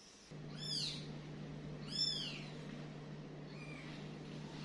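Newborn kittens mewing: three thin, high-pitched mews that rise and fall, roughly one every second and a half, the last one faint, over a steady low hum.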